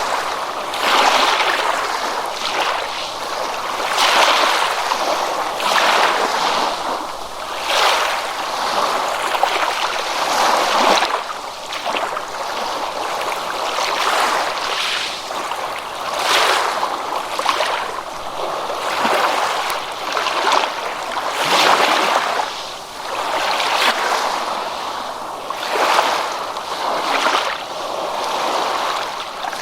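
Ocean water washing and splashing in repeated surges, one swell every couple of seconds.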